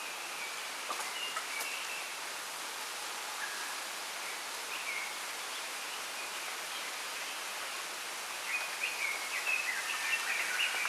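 Steady rustling hiss of wind through a bamboo grove, with small birds giving short high chirps now and then and a quicker run of chirps over the last couple of seconds.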